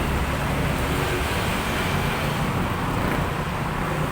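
Steady background noise of road traffic, a low even rumble with no distinct events.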